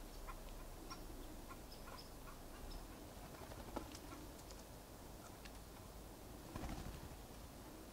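Faint, scattered short bird chirps and ticks over a quiet outdoor background, with one sharper tick about halfway through.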